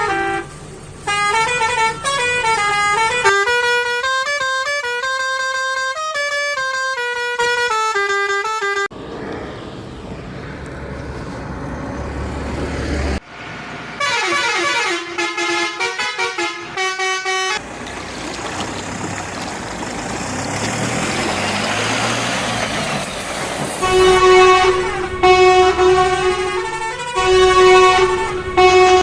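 Vehicle horn sound effects: a tune of stepping notes in the first several seconds, a noisy stretch in the middle, then repeated steady horn honks that start and stop over the last few seconds.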